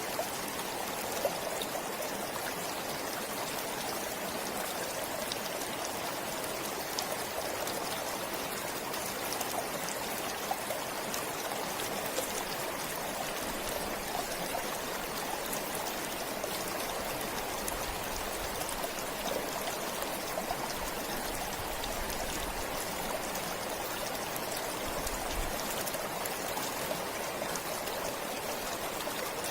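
Forest stream flowing steadily, its water splashing and trickling with a constant rush and many small drip-like splashes.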